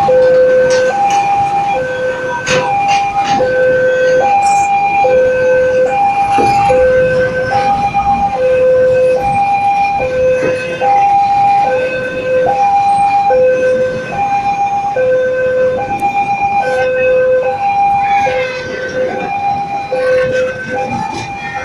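Railway level-crossing warning alarm sounding a steady two-tone hi-lo signal, the high and low notes alternating about once every two-thirds of a second. It warns that a train is approaching.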